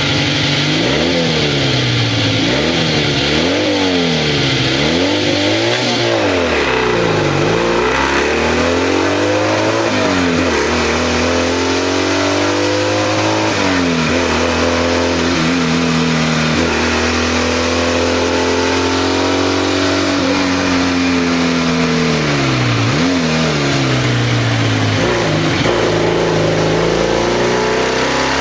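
BMW 700 RS's air-cooled flat-twin engine heard from the cockpit, pulling hard uphill. Its pitch falls and rises again and again over the first ten seconds, then holds fairly steady, with another dip and climb about three quarters of the way through.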